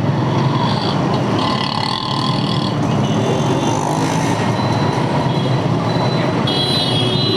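Heavy stop-and-go city traffic heard from a motorcycle, a steady din of engines. High-pitched squeals rise over it about a second and a half in and again near the end.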